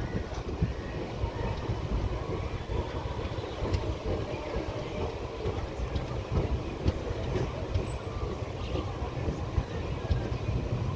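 Indian Railways passenger coach running along the track, heard from its open doorway: a steady rumble of wheels on rail with scattered clicks and knocks.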